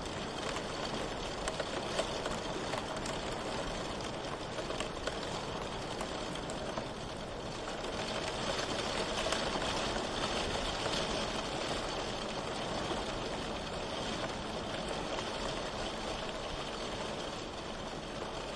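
Steady rain falling, with scattered ticks of individual drops; it swells slightly about eight seconds in and eases again near the end.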